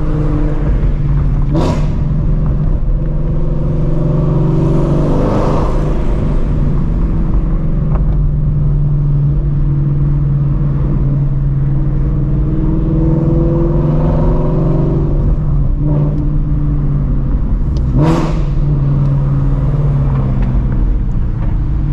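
Loud straight-piped exhaust of a 2016 Shelby GT350's 5.2-litre flat-plane-crank V8 with long-tube headers, running at low revs while cruising, its pitch rising and falling gently with light throttle. Two brief sharp sounds stand out, about two seconds in and near the end.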